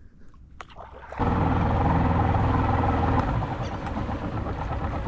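A boat motor starts up suddenly about a second in and runs steadily, easing to a lower level about two seconds later.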